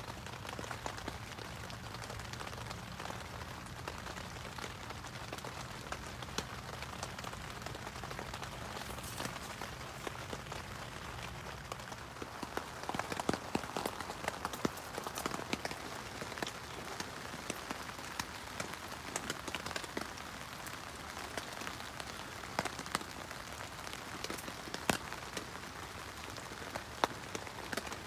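Rain falling on a Luxe Twinpeak tent, heard from inside: a steady hiss with many sharp single drops ticking on the fabric.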